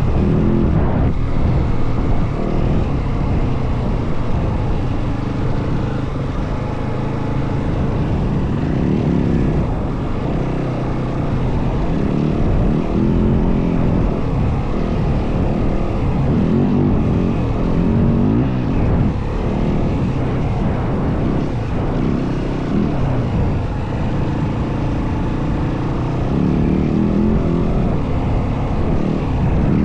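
Yamaha WR450F dirt bike's single-cylinder four-stroke engine running under way, its pitch rising and falling over and over as the throttle opens and closes.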